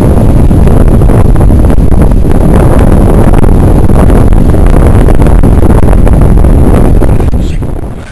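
Wind buffeting the microphone: a loud, steady rumble that dies away near the end.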